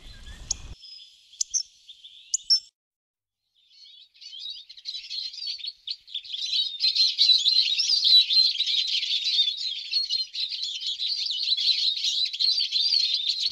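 Birds chirping and twittering in a dense, continuous chorus of quick high calls, starting after a short break about four seconds in.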